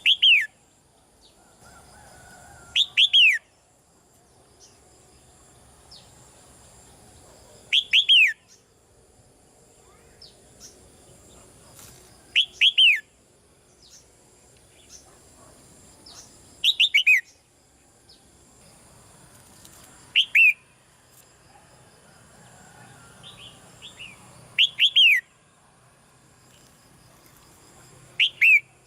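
Red-whiskered bulbul calling: short clusters of two or three quick downward-sweeping notes, repeated about every four seconds.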